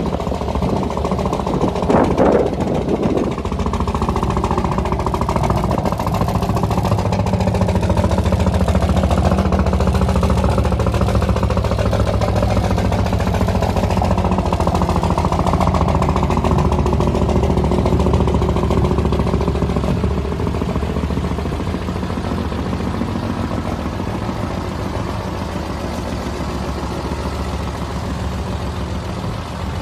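Truck engine running steadily, with a brief louder burst of noise about two seconds in.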